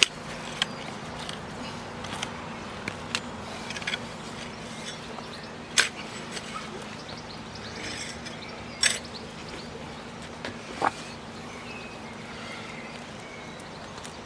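A spade working soil: scattered sharp knocks and clinks, about half a dozen, over a faint steady hum.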